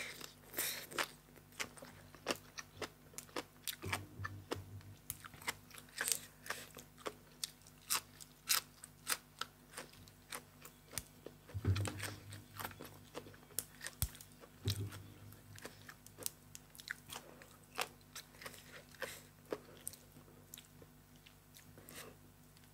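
A person chewing crunchy food: an irregular stream of short crisp crunches and wet mouth clicks, with a few soft low thuds scattered through.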